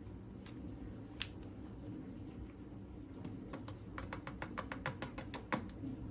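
Light clicking taps: a single click, then from about halfway a quick run of roughly seven taps a second for two seconds, ending in a louder knock, over a low steady hum.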